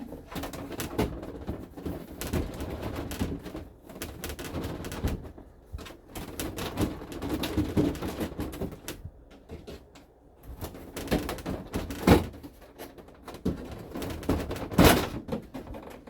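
Plastic dash panel being pried and worked loose by hand: a run of clicks, creaks and rattling knocks, with two sharp knocks, about twelve and fifteen seconds in.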